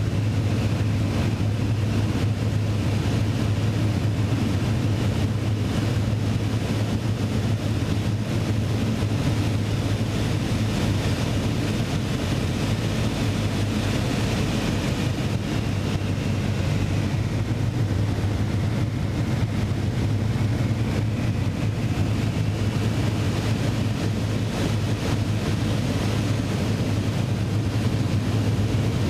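Propeller aircraft engine running steadily in flight, with a constant low drone and a rush of wind noise.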